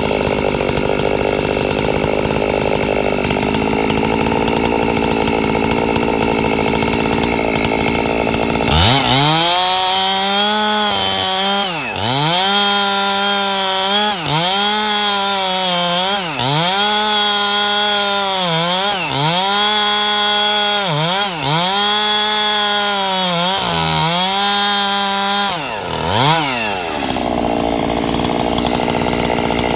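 Two-stroke chainsaw running under load while ripping a log lengthwise. About nine seconds in, the engine pitch climbs higher and then sags and recovers roughly every two seconds, as the cut bites and eases. Near the end it drops back to a lower, rougher note.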